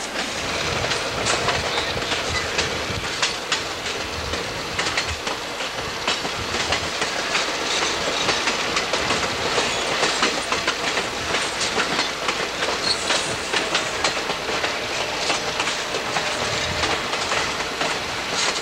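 Passenger train rolling along the track, heard from aboard a coach: a steady rumble of wheels on rail with frequent sharp clicks.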